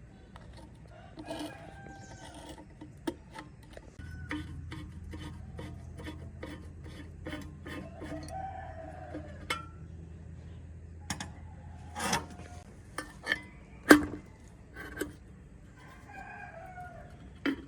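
Scattered sharp clicks and knocks, with one loud knock near the end, over chickens clucking in a few short calls. A low steady hum starts about four seconds in and stops after about twelve seconds.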